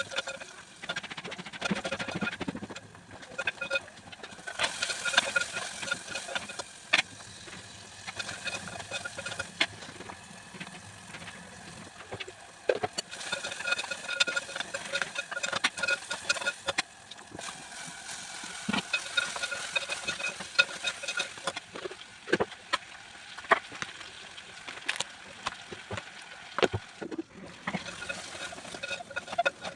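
Brinjal cooking in a pan: a spatula stirring and knocking against the pan many times, over a sizzling hiss.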